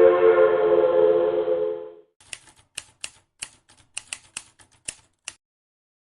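An Alco S4 diesel switcher's air horn sounds a steady chord and cuts off about two seconds in. It is followed by a run of about ten sharp typewriter key clacks over three seconds, then silence.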